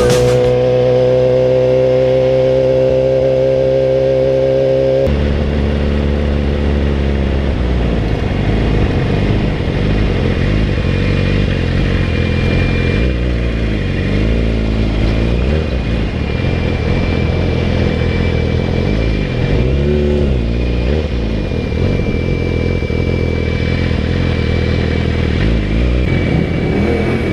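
Yamaha R6 sport bike's inline-four engine under way. Its pitch climbs in one gear for the first few seconds and drops suddenly at an upshift about five seconds in. Later it eases off and picks up again twice.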